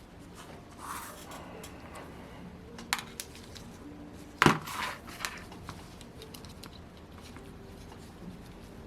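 A few light metallic clicks and taps of small model-engine parts and hand tools being handled on a work mat, with a brief scrape about a second in and the sharpest click about four and a half seconds in.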